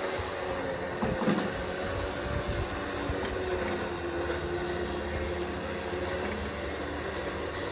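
Vehicle on the road, likely the pickup towing the tractor trailer: a steady engine hum whose pitch drifts slowly, under road noise. There is a single clunk about a second in.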